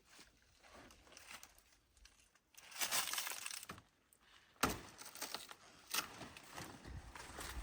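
A blade chopping into a banana plant's stalk: a few sharp cracking strikes with rustling of the plant between them.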